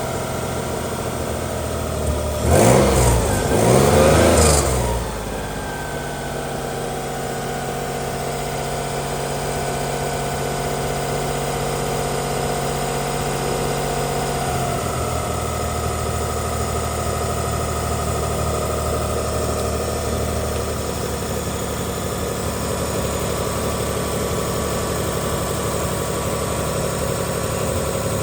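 2004 Mitsubishi Pajero V6 petrol engine idling, revved twice briefly a few seconds in, then running steadily. About halfway through, the idle steps down to a lower speed.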